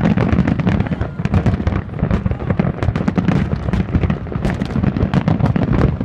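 Fireworks finale: a continuous barrage of aerial shell bursts, many overlapping bangs a second, with no break.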